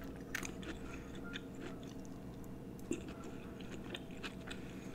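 A person chewing a mouthful of pepper steak (thin-sliced beef, bell peppers and onion in gravy) with the mouth closed: faint chewing with scattered small mouth clicks.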